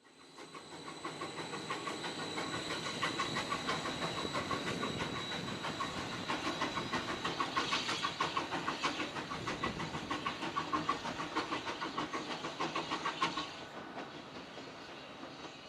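A railway train running with a fast, regular clatter, fading in at the start and dying away about fourteen seconds in.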